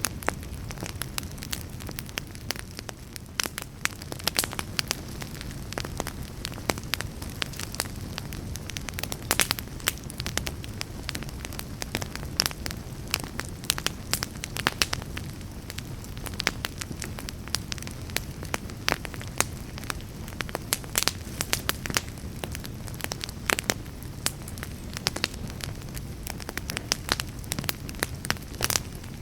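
Wood fire burning in a fireplace, a steady low rumble with frequent sharp, irregular crackles and pops.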